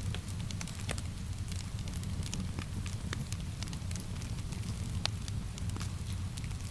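Wood fire crackling, with frequent irregular sharp pops over a steady low rumble, and rain hissing in the background.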